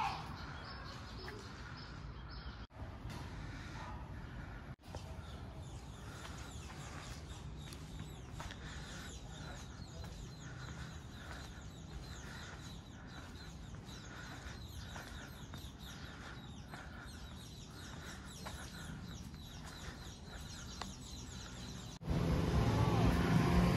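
Small birds chirping, with many short quick calls over a faint steady background. Near the end it cuts suddenly to much louder street noise with a low traffic rumble.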